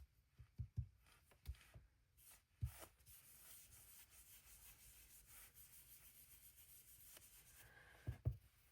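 Faint rubbing of an ink blending brush swiped lightly over card stock, with a few soft knocks in the first three seconds and again near the end.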